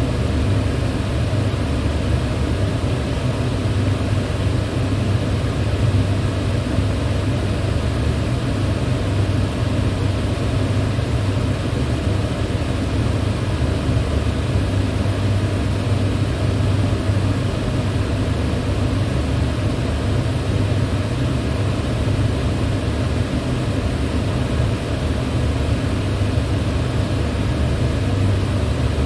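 Electric fan running steadily: an even rush of air with a deep hum underneath.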